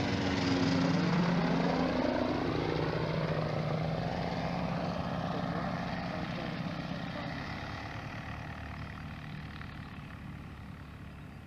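Ultralight aircraft engine passing by. It is loudest at first, its pitch drops as it goes past, and then it fades steadily as it flies away.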